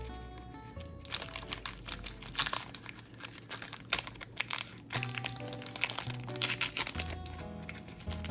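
Crinkling and crackling of a foil booster pack wrapper being handled and torn open, in dense bursts from about one second to about seven seconds in, over light background music.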